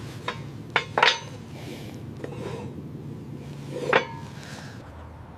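Light metallic clinks and knocks, about five spread out, with a short ring after each. The loudest come about a second in and about four seconds in.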